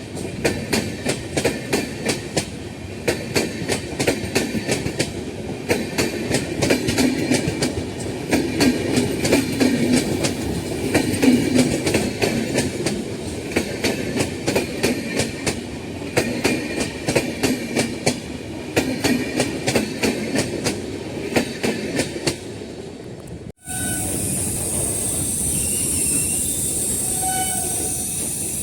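Passenger train passing close by, its wheels clattering over the rail joints in a rapid, continuous clickety-clack. Near the end the sound cuts off abruptly and gives way to a steady hiss.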